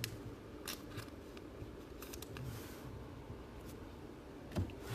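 Trading cards being handled and flipped through by hand: a few soft, scattered clicks and slides of card stock over a faint room hum.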